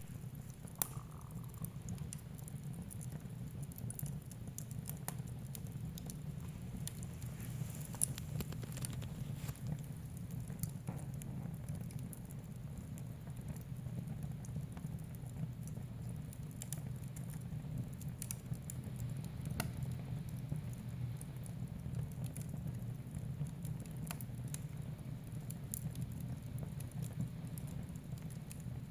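Wood fire burning in a fireplace: a steady low rumble of flames with frequent small crackles and scattered sharper pops, one of the loudest about a second in and another around eight seconds in.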